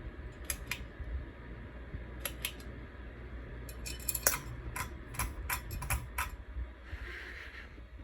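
Crest 4500 Series ceiling fan running with a steady low hum, over a series of sharp metallic clicks and rattles. The clicks come in a pair about half a second in, another pair after two seconds, and a quick run from about four to six seconds.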